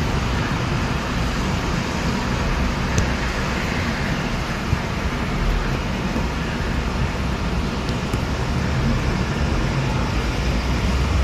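Steady hiss of heavy rain mixed with the rumble of traffic on a wet road, with a few faint ticks.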